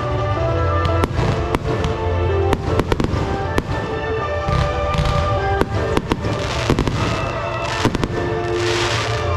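Fireworks going off in quick succession, many sharp bangs, with a burst of crackling near the end, over background music.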